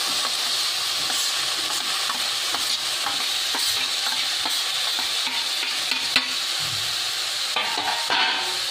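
Chopped tomatoes sizzling steadily as they hit hot oil in a nonstick pan with green chillies and curry leaves, with a few sharp clinks and scrapes as a steel plate pushes the pieces off into the pan.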